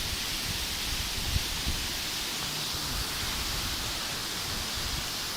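Waterfall's steady rush of falling water, an even hiss, with a few low thumps mixed in.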